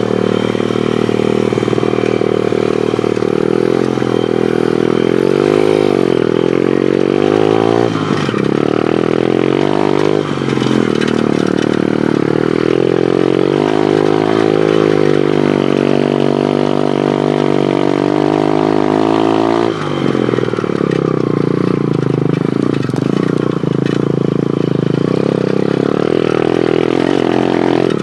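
Pit bike engine running as it is ridden, its pitch rising and falling repeatedly with the throttle and gear changes.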